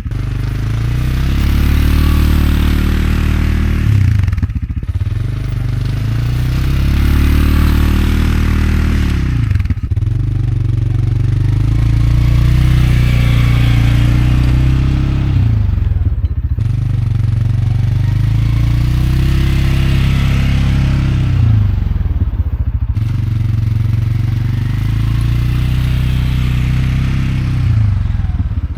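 CFMoto CForce 520L ATV engine working in repeated plowing passes, its revs rising and then dropping away about every five to six seconds. A plow blade scrapes and clatters through snow during each push.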